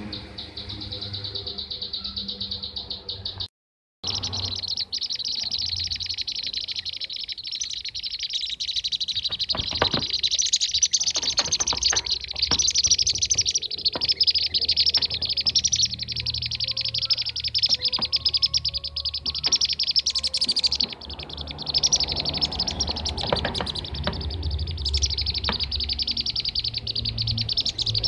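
Bee-eater (kirik-kirik) calls played as a bird-trapping lure: a dense, continuous chorus of rapid high chirps and trills, as if from many birds. It cuts out for about half a second around three and a half seconds in.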